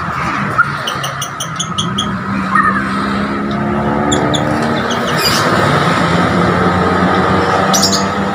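Songbirds chirping in quick series of short high notes over a loud, steady low drone.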